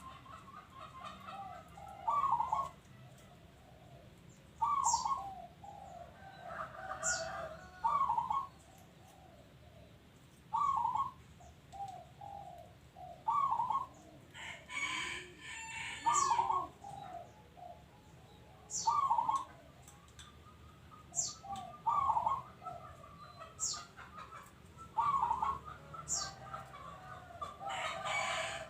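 Zebra dove cooing its rhythmic song over and over, one phrase about every two to three seconds. A rooster crows about halfway through and again near the end, and a small bird gives a few short high chirps.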